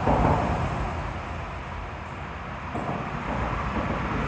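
Steady rushing noise of a flooded, fast-running creek, with wind buffeting the microphone in a low rumble that swells at the start and again near the end.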